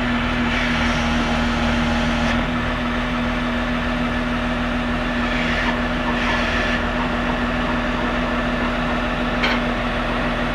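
Big John Deere rubber-tired loader's diesel engine running steadily with a constant hum, with two short swells of hissing noise and a sharp click near the end.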